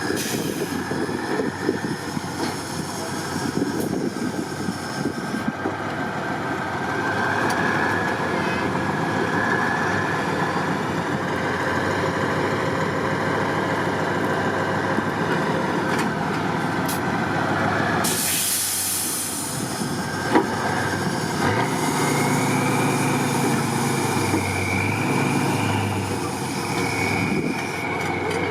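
Off-road trial truck engines running under load, with a burst of compressed-air hiss about two-thirds of the way through and engine tone rising again near the end.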